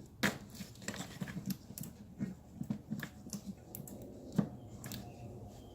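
Irregular clicks and knocks of hand work on engine-bay parts as a hose is being disconnected, with a sharp click about a quarter second in and another about four and a half seconds in.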